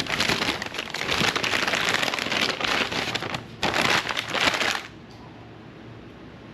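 A burrito's wrapper being crinkled and peeled open by hand in a dense crackling rustle for nearly five seconds, with a brief pause partway through.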